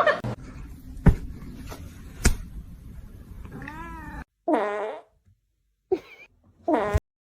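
Two sharp knocks over a low rumbling noise, then a cat meowing three short times in the second half.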